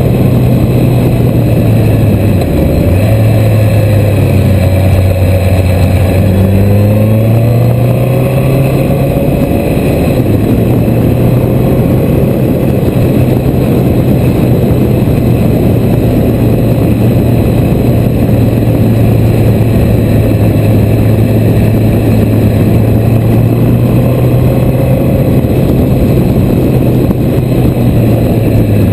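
Suzuki Hayabusa inline-four motorcycle engine running under way. Its pitch drops about two seconds in, climbs again over the next several seconds, then holds steady, over a constant rushing noise.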